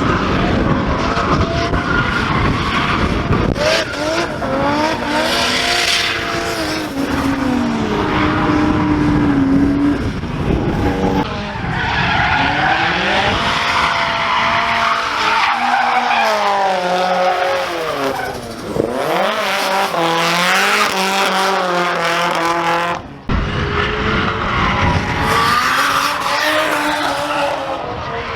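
Drift cars at full throttle with tyres squealing and skidding, engine pitch repeatedly rising and falling as the drivers work the throttle through the corners. The sound drops out briefly and abruptly about three quarters of the way through, then resumes.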